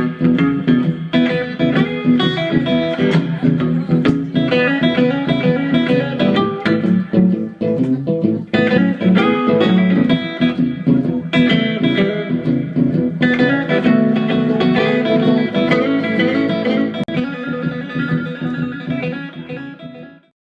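Guitar playing an instrumental blues shuffle, fading and stopping near the end.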